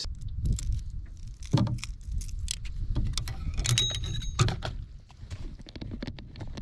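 Irregular knocks, taps and light metallic rattling from handling a just-landed bass and its tackle in a canoe.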